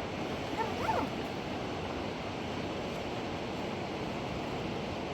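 River water rushing in a steady, even hiss. A brief high, gliding call cuts through it about a second in.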